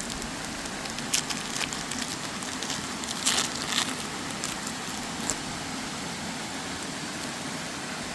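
Steady rush of a waterfall, with crinkling and crackling of card packaging in several short bursts between about one and five and a half seconds in.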